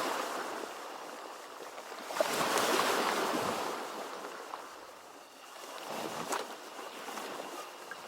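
Ocean surf, waves breaking and washing back. The tail of one wave fades at the start, a larger wave surges about two seconds in and dies away, and a smaller one comes around six seconds.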